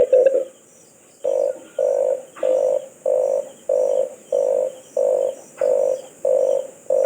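Red collared dove cooing: a quick run of short, gruff notes right at the start, then after a short pause about ten low coos in an even series, roughly one every 0.6 seconds.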